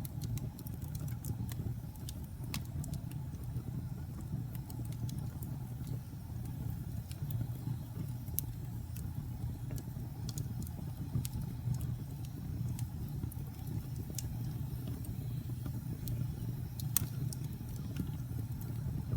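Wood fire burning in a fireplace: a steady low rumble with scattered sharp crackles and pops, a louder pop near the end.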